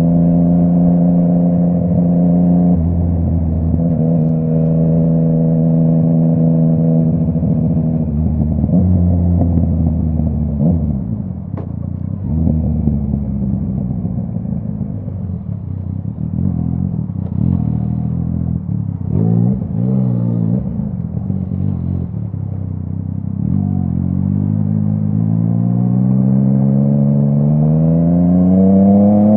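Yamaha MT-09's inline three-cylinder engine through a full Akrapovic exhaust while riding. It holds steady revs, then drops in pitch as the throttle closes about eight seconds in, runs low and uneven with a few pops, then revs up in a steady rising pitch over the last six seconds.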